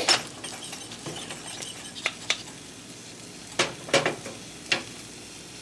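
Several sharp clinks of a utensil against dishes or a pan, a few in quick pairs, over a faint steady sizzle of eggs frying.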